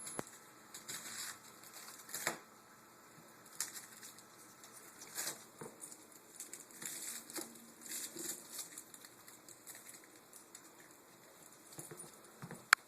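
A dog rummaging in Halloween candy: irregular crinkling of wrappers and light tapping, with one sharp click near the end.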